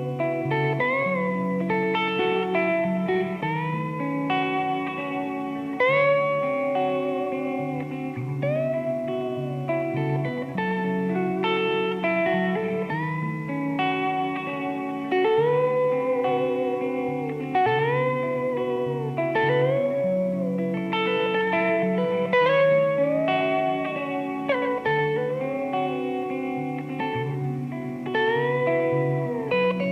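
Instrumental guitar music: a slow lead melody with notes bent up and down over held chords.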